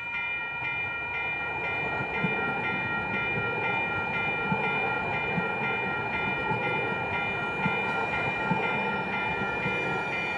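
A train rolling through a grade crossing, its wheels clicking now and then over rail joints, while the crossing's warning bell rings in a fast, even repeating pattern.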